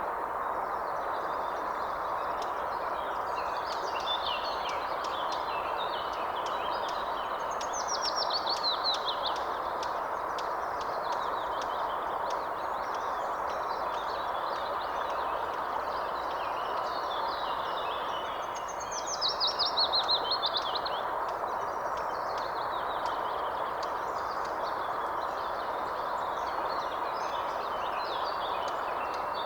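Several wild birds singing and chirping over a steady rushing background noise, with two louder rapid trills that fall in pitch, one about a quarter of the way in and one near the middle.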